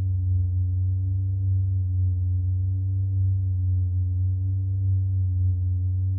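Steady, deep ambient drone with a stack of soft tones above it that slowly waver up and down in pitch: a background music pad.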